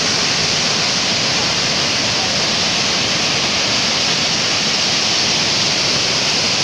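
Waterfall: a steady, hissing rush of falling water that holds an even level throughout.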